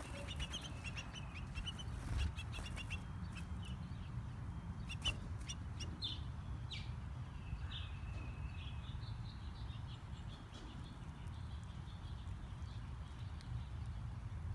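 Birds chirping: a quick run of short chirps in the first few seconds, then a few longer calls later, over a steady low background rumble.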